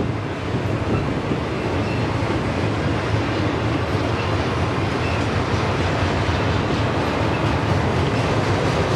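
A long freight train of autorack cars rolling past at steady speed, with steel wheels running on the rails in a continuous, even rumble.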